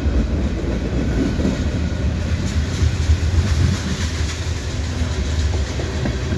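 Mixed freight train rolling past at close range, a steady low rumble with the wheels clicking over rail joints.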